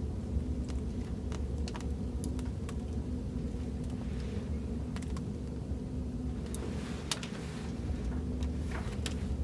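Fireplace recording: a wood fire crackling with irregular sharp pops and snaps over a steady low rumble.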